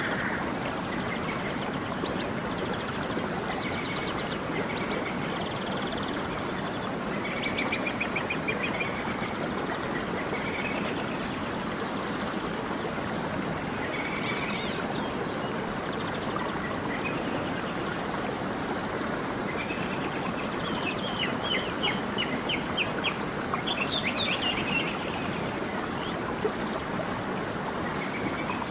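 Small stream running steadily, with songbirds chirping over it: scattered short calls throughout, and bursts of rapid trills around eight seconds in and again from about twenty to twenty-five seconds.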